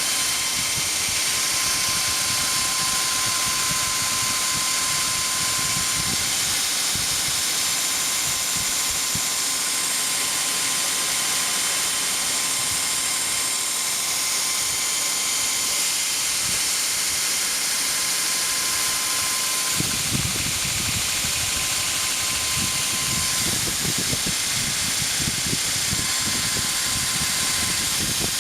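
2x72 belt grinder on a 3,480 rpm motor running at full speed: a steady hiss from the abrasive belt with a thin whine over it. It gets rougher and grittier near the start and again from about two-thirds of the way through, as steel flat bar is ground against the belt.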